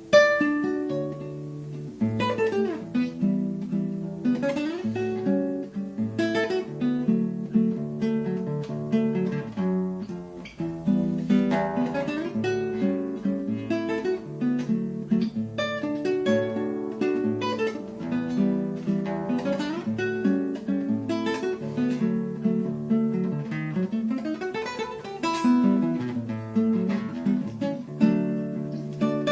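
Plucked string instrument playing a choro: chords and quick runs of single notes.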